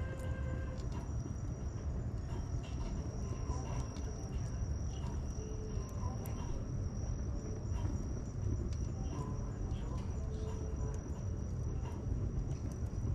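Wood bonfire burning, with sparse crackles and pops over a steady low rumble. A steady high insect trill starts about a second in and carries on.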